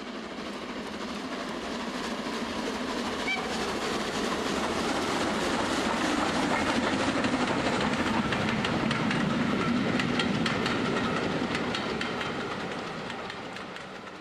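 A passing train: a rushing rumble that builds over several seconds and fades away near the end, with many clicks of wheels running over rail joints.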